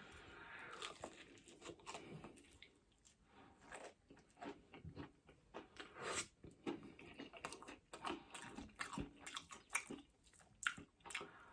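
Close-miked eating of a fried chicken wing: faint bites, chewing and small crisp crunches with wet mouth clicks.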